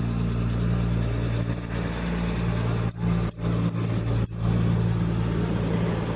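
Steady low machine hum, like a running motor or engine, over a faint background hiss, with three brief sudden dropouts in the middle.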